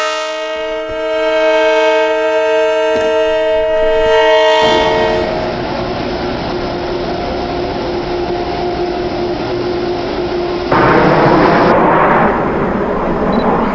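A diesel locomotive's K5LLA five-chime air horn sounding one held chord for about four and a half seconds, then the steady noise of the passing train, which gets louder about eleven seconds in.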